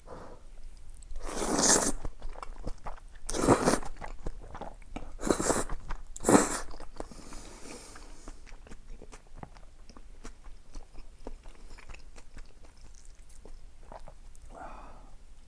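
Close-miked eating: four loud crunching bites in the first half, then steady quieter chewing.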